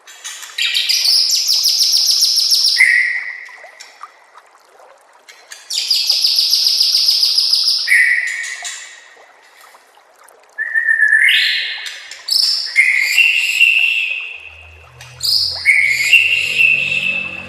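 White-rumped shama (murai batu) singing: two long, rapid trilled phrases, each ending in a short lower whistle, then a run of shorter phrases of rising whistles and chattering notes.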